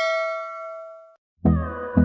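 A bell-like ding with several clear overtones ringing out and fading, cut off abruptly just over a second in. Near the end, music with a steady low beat starts.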